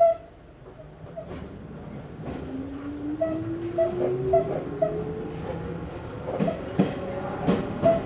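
Interior running sound of an Izu Hakone Railway Series 3000 resistance-controlled electric train pulling away from a station. The traction motor whine rises steadily in pitch as the train accelerates, and a few sharp rail-joint clacks come near the end.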